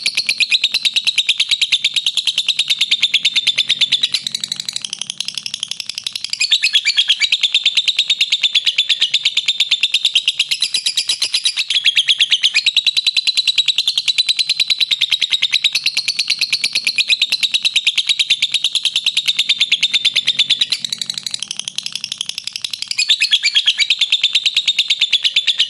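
Lovebird 'ngekek': a long, unbroken trill of rapid, high chattering notes, easing slightly twice before picking up again.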